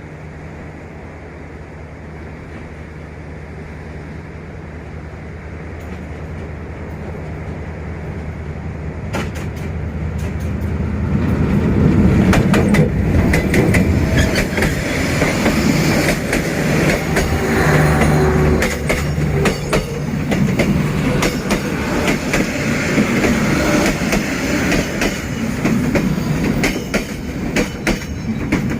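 D19E diesel-electric locomotive hauling a passenger train: a steady low engine drone that grows louder as it approaches, then, from about eleven seconds in, the train passing close with wheels clattering rapidly over the rail joints.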